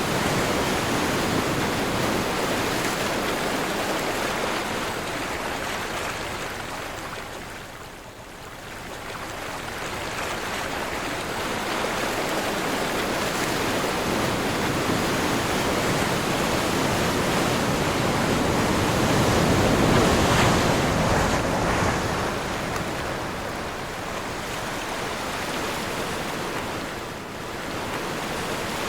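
Sea waves rushing and washing in, with wind, a continuous roar of surf that ebbs about a quarter of the way in and swells to its loudest about two-thirds of the way through before easing again.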